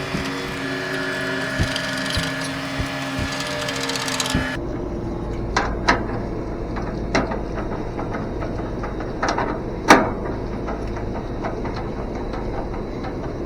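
A steady machine hum with several held tones, which cuts off suddenly about four seconds in. A duller, lower hum follows, with a handful of sharp mechanical clicks and knocks scattered through it.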